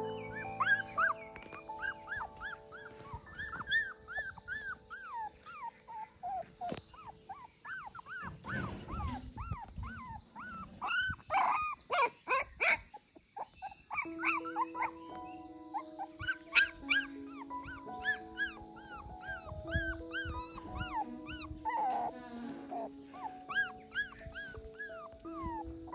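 Puppies whimpering and squealing in many short high-pitched cries, a few each second, over background music of held notes.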